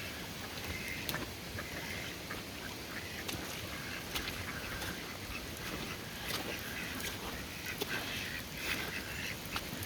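Domestic ducks quacking on and off, several times through the stretch, over the steady hiss of heavy rain with scattered drip ticks.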